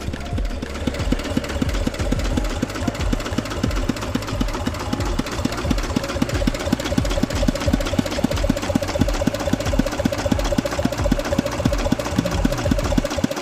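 An engine running steadily, with a fast, even chugging pulse and a steady hum, cutting off suddenly at the end.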